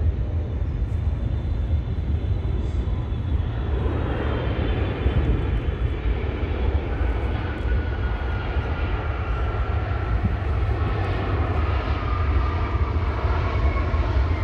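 Jet airliner's engines rumbling as it passes, with a whine that slowly falls in pitch over the second half.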